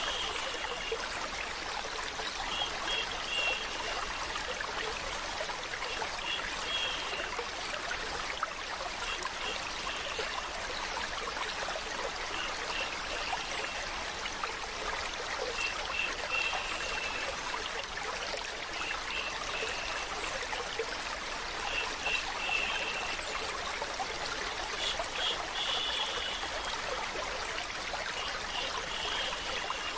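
Steady running and trickling water, like a small stream. A brief high-pitched sound of a few quick notes recurs about every three seconds.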